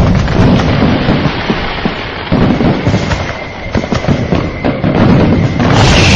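Dense fireworks barrage: rapid overlapping booms and crackling bursts. Near the end a hissing burst starts, with a slightly falling whistle.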